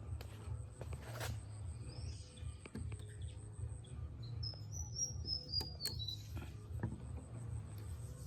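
Small birds chirping, including a short run of high notes falling in pitch about five seconds in, over a steady low rumble and a few sharp clicks.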